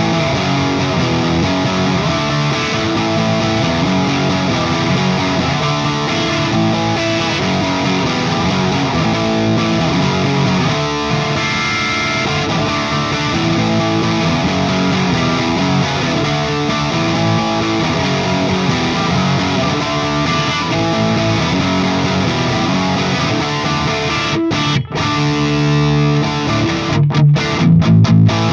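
Distorted electric guitar riffing: a Gibson Les Paul Classic with Righteous Sound Gold Tooth humbuckers, played through a Friedman Small Box 50 amp. The playing breaks off briefly twice about three-quarters of the way in, then turns to short, choppy hits near the end.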